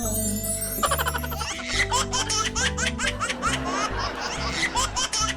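Background music with a bassline, and from about a second and a half in, rapid high-pitched laughter over it, short falling peals several times a second.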